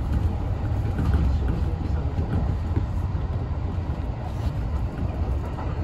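Kintetsu Railway electric train running along the track, heard from inside the driving cab: a steady low rumble from the wheels and rails.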